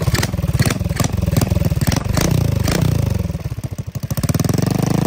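Honda 150 cc single-cylinder four-stroke motorcycle engine running through a short, open makeshift exhaust pipe. Its speed drops about halfway through and picks up again near the end.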